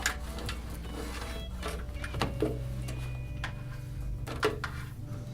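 Light clicks and knocks of speaker wire being handled and pulled through a wire cinch on a bird-repeller mounting bracket, over a low steady hum.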